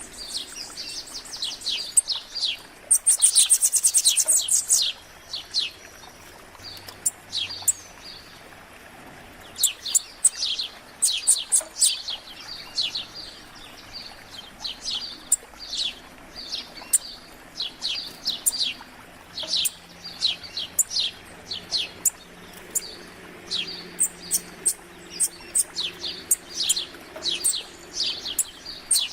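Several wild songbirds chirping and singing in quick short calls, with a loud, very fast trill about three seconds in.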